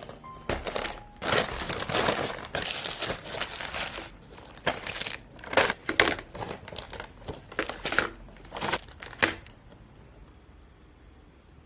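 Packaging being handled and crinkled, in irregular rustles with a few sharp crackles, stopping shortly before the end.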